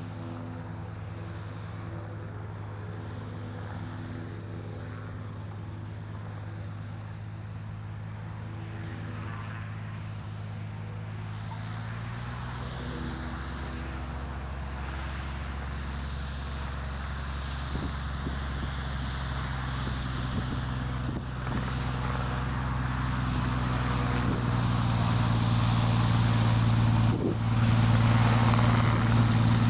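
Cessna 172's piston engine and propeller droning on approach, growing steadily louder as the plane comes closer, with the engine note shifting to a lower, fuller drone about twelve seconds in.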